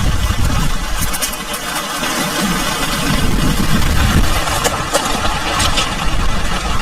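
Heavy rain driven by a strong, gusting storm wind, with wind rumbling on the microphone and scattered sharp pattering hits.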